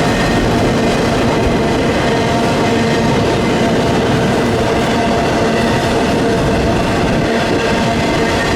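Freight train cars rolling steadily past on the rails, a continuous rumble and clatter of wheels on track with a few faint steady tones running through it.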